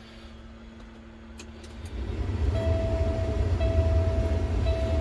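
Semi truck powering up under remote start before the engine cranks: about two seconds in, a low rumble rises, and a dash warning tone starts sounding in long beeps of about a second each.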